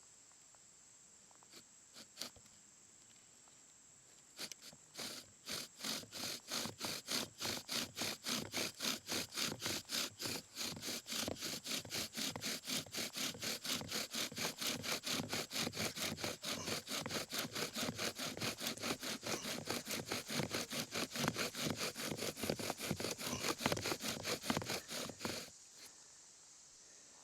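Bow drill worked fast: a hemlock spindle grinding back and forth in a hemlock hearth board in rapid, even strokes of about four a second, starting a few seconds in and stopping abruptly near the end.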